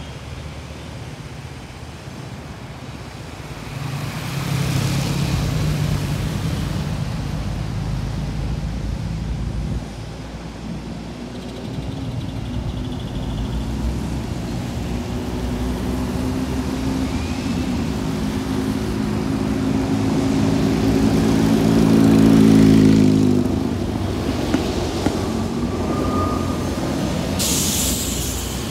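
Road traffic: a large motor vehicle's engine running, its pitch climbing slowly for about ten seconds before dropping off suddenly about 23 seconds in. A short hiss comes near the end.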